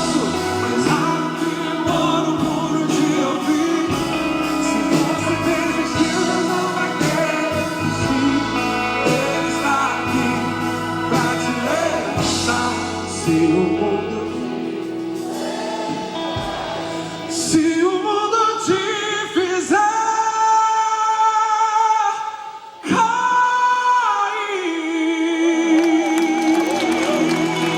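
Gospel worship song performed live: voices singing over a full band with drums. In the second half the band thins out and the singing turns to long held notes.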